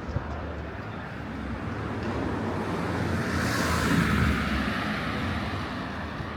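A car passing by on the street, its engine rumble and tyre noise building to a peak about four seconds in and then fading, over steady traffic noise.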